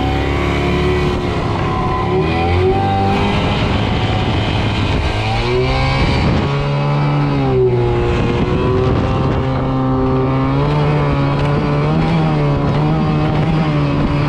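Motorbike engine running while riding, its pitch rising and falling with the throttle, easing down about six seconds in and then picking up again.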